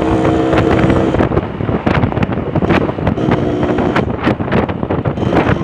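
Yamaha RX-King single-cylinder two-stroke motorcycle engine running under way, with heavy wind noise on the microphone. The steady engine note holds for about the first second, then breaks up into a rougher, choppier sound, with the steady note coming back briefly past the middle.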